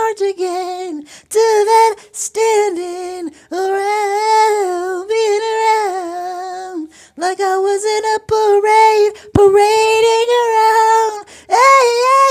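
A high voice singing wordless, unaccompanied phrases, holding long wavering notes with short breaks between them.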